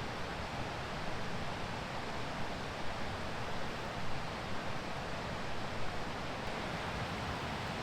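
Steady rushing of a river running full, an even hiss of flowing water with no distinct events.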